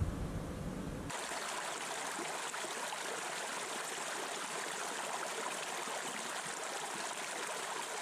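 A stream flowing steadily, a continuous rushing of water. In the first second a low rumble sits under it and cuts off suddenly.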